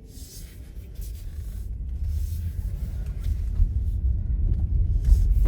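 Car driving, a low road rumble heard from inside the cabin, growing steadily louder.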